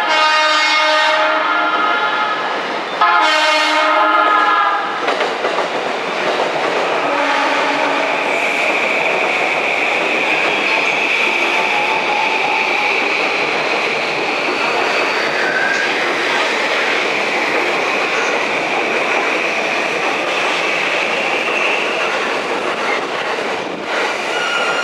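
JR East E235-series Yamanote Line train sounding two long, loud horn blasts, then running into the platform with rail noise and a steady high whine.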